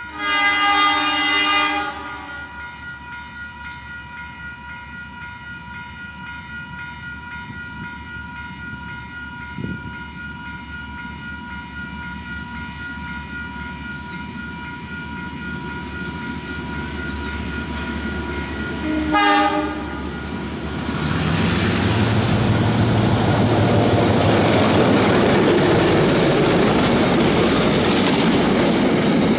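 DA-class diesel-electric locomotive sounding its horn in a two-second blast, then a short second blast some twenty seconds later. After that the train passes loudly, with engine hum and wheel rumble on the rails.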